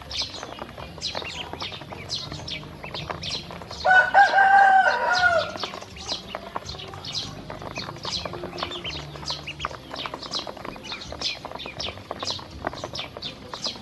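A flock of ducklings peeping continuously in rapid, high chirps. About four seconds in, a louder single call of about a second and a half, a rooster crowing, rises over them.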